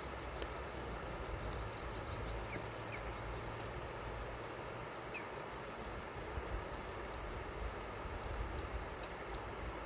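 River water flowing: a steady rushing hiss with a low, uneven rumble beneath it. A few short high chirps come through it.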